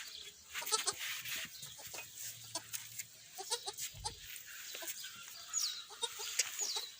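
Goat kids bleating in short calls, over scattered high chirps and clicks.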